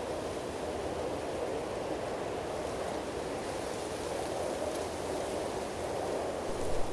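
Steady rush of moving water, even and unbroken, with a brief low bump near the end.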